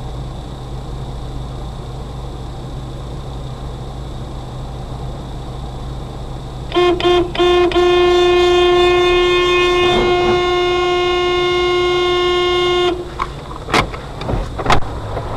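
Steady vehicle road and engine noise, then a car horn sounds three short toots and is held for about five seconds before cutting off. A few sharp knocks follow near the end.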